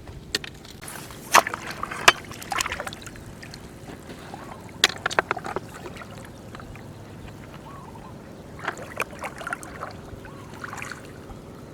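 Splashing and sloshing in shallow flowing water, with a handful of sharp clicks and short splashy clusters over a steady low hum.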